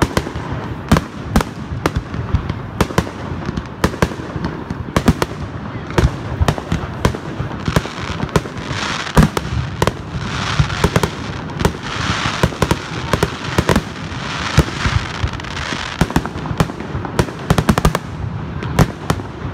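Fireworks display: sharp bangs of shells bursting in quick, irregular succession, several a second, with a thicker hiss building under them from about 8 to 16 seconds in.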